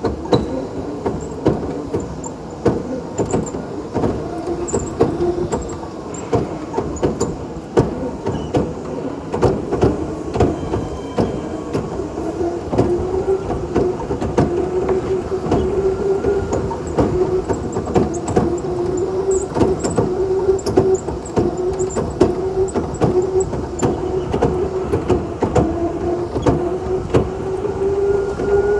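Indoor electric go-kart running on the track, its motor whine holding one steady tone that slowly rises in pitch, with many clicks and knocks from the kart throughout.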